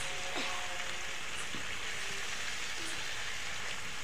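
Fish roe sizzling steadily in hot oil in an aluminium kadai.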